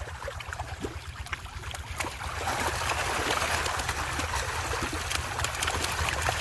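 Fish-pond water splashing and trickling with many small splashes, growing louder about two and a half seconds in.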